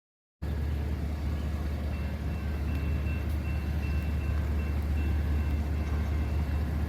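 Steady low rumble of a freight train's diesel locomotives running slowly, with a faint thin high whine joining about two seconds in. The sound starts abruptly about half a second in.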